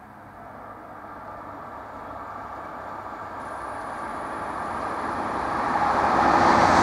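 An NMBS InterCity electric multiple-unit train approaching the level crossing, its rumble growing steadily louder throughout. A thin high whine joins about halfway through.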